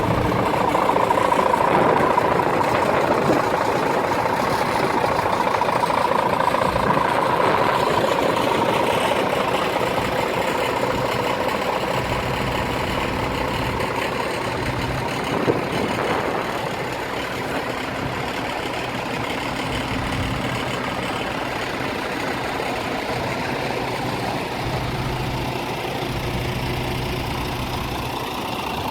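Scania R410 tractor unit's 13-litre inline-six diesel engine idling steadily, a little louder over the first third, with a single short knock about halfway through.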